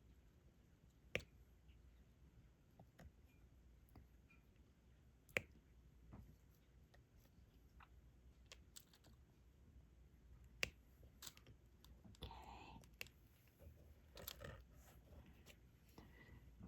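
Sparse, irregular small clicks and taps of a diamond-painting stylus picking up resin drills and pressing them onto the canvas, three of them louder than the rest, over a very quiet room.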